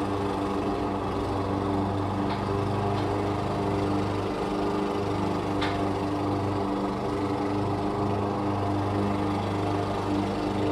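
Lawn mower engine running steadily at constant speed, with a few faint light clicks about two, three and six seconds in.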